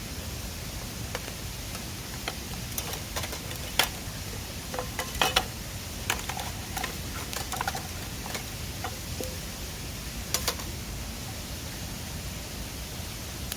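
Steady rushing of a mountain river, with scattered sharp clicks and knocks, most of them clustered in the middle and two close together near the end.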